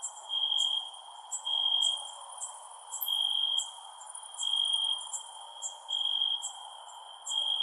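Crickets chirping at night: one cricket trills in regular bursts about once a second, with shorter, sharper high-pitched chirps scattered over it and a steady insect hiss underneath.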